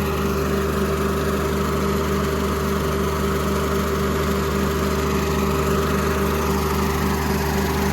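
John Deere diesel engine idling steadily after starting well, with an even, regular pulse.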